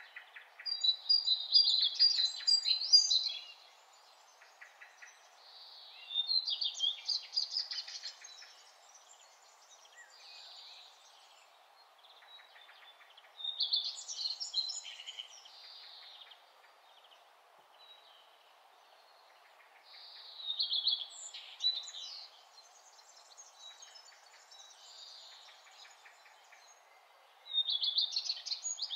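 A songbird singing in five short bursts of chirps and trills, each two to three seconds long and roughly seven seconds apart, over a steady background hiss.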